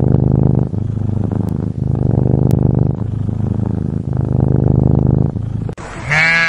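Domestic cat purring, loud and close, in phrases of about a second with a short break for each breath. Near the end a bleat begins.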